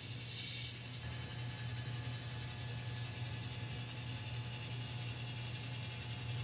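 N scale model locomotive running through a crossover: a steady low motor hum with a few faint clicks as the wheels pass rail joints and switch points, and a brief hiss about half a second in.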